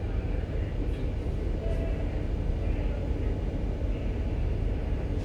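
Steady low rumble aboard a ship manoeuvring to berth, its engines running.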